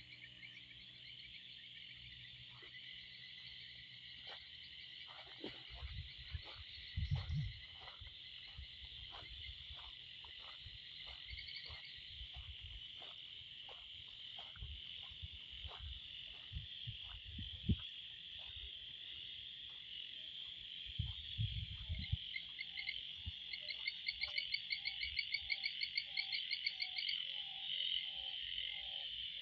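Frogs in a breeding chorus after heavy rain: a dense, steady trilling chorus with short single calls about once a second through the middle, and bursts of fast pulsing calls joined by a lower pulsing call in the last third. A few low rumbles sound underneath.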